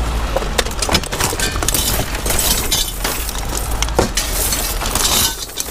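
Scrap metal clanking and clattering as pieces are handled and tossed onto a pile: a run of sharp knocks and crashes, over a steady low rumble.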